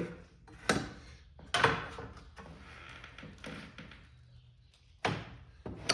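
A few sharp knocks and scrapes as a square is set against a cut sheet-steel panel to square up a marking line: two knocks near the start and two near the end, with quieter rubbing between.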